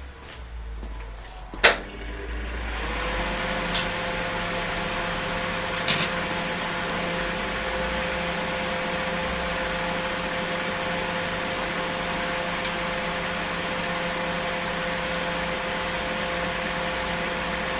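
A microwave oven switched on with a click, then running with a steady hum of magnetron, fan and turntable, with a couple of faint ticks.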